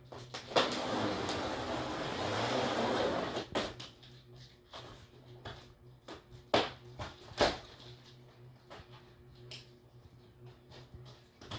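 Large cardboard TV box being opened: a rough, steady scraping and tearing noise of cardboard for about three seconds, then several sharp knocks and clicks as the flaps and packaging are handled.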